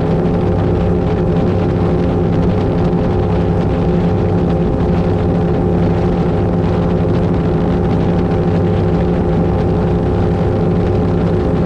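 Twin V8 engines of an Avanti 33 powerboat running at steady revs, an even drone that holds without change.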